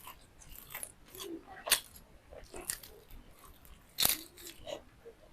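Close-miked mouth sounds of eating: chewing with irregular crunchy bites, the two loudest about one and a half and four seconds in.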